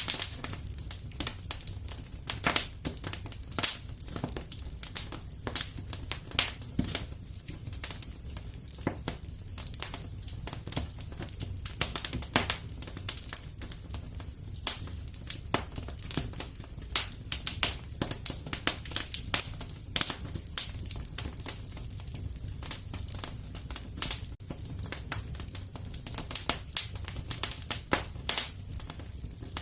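Fire in a fireplace crackling, with irregular sharp pops and snaps several times a second over a low, steady rumble.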